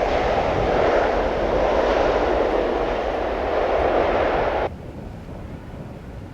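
Jet airliner's engines on landing approach: a loud, steady rushing noise that cuts off suddenly about four and a half seconds in, leaving faint wind.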